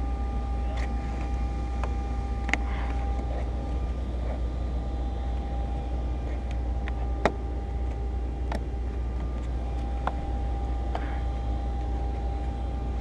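Steady low hum, with a few sharp clicks and taps of tools and plastic trim as a cord is worked in under a tight quarter-glass moulding. The loudest tap comes about seven seconds in.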